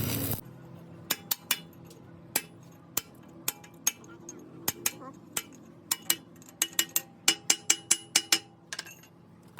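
Light hammer taps on metal, irregular at first, then coming faster, about four or five a second, near the end. Just after the start a loud, noisy machine sound cuts off.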